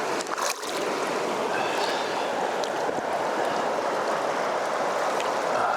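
Steady rush of running river water, with a brief knock near the start.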